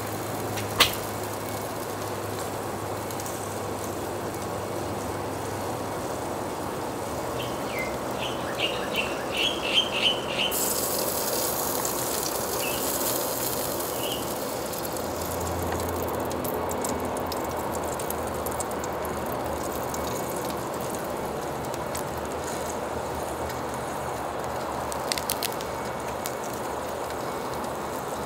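A bird chirping a quick series of short notes about eight to ten seconds in, over steady background noise, with a sharp click near the start and a few small clicks near the end.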